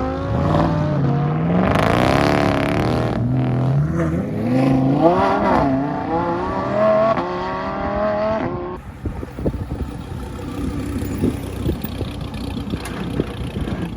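A car engine revving hard as the car accelerates away, its pitch rising and dropping back several times. It fades out about eight and a half seconds in, leaving quieter background noise with scattered clatter.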